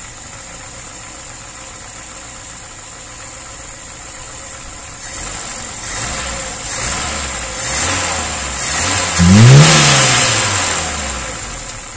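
VAZ-2103 four-cylinder carburettor engine idling with freshly adjusted valves, the heavy knocking of the tight valves gone. About five seconds in it is revved in several rising blips, the biggest near the end, rising in pitch and falling back to idle.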